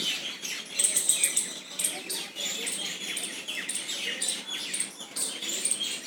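Birds chirping: many short, high chirps, some overlapping.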